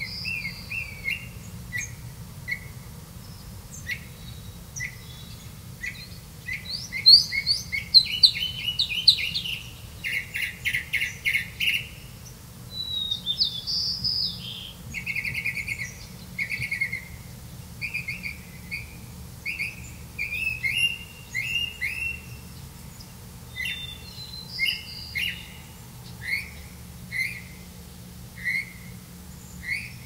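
Birds chirping: a long run of short, high chirps, with quick trilled series around the middle, over a faint steady low hum.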